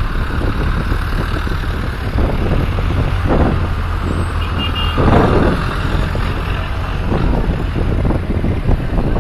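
Tractor engines running steadily, with louder swells about three and five seconds in.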